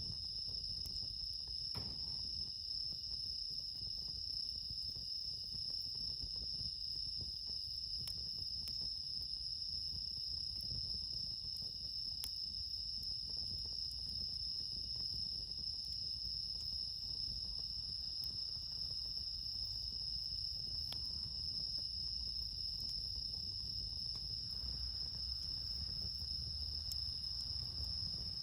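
Steady night chorus of crickets, a continuous high trill that never breaks, over a low rumble.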